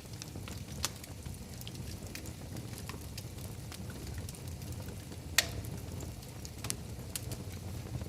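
Wood fire burning in a fireplace: a steady low rumble of flames with scattered small crackles and one loud sharp pop about five seconds in.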